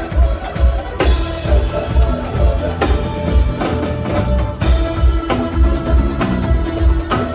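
A live band playing, with a drum kit keeping a steady beat over a heavy, pulsing bass and held instrument notes.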